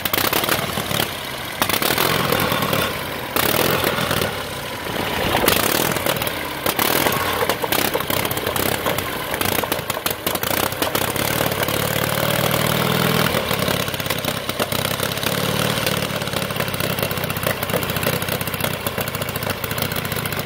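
1912 Indian boardtrack racer's engine being warmed up, revved in uneven surges at first, then running steadier from about halfway. The blipping clears out the carburetor while the mixture is set, with a little hesitation and misfire.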